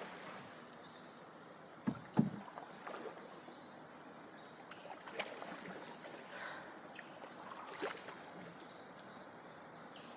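Canoe paddling on a river: paddle strokes in the water over a steady background, with a few knocks, the loudest pair about two seconds in.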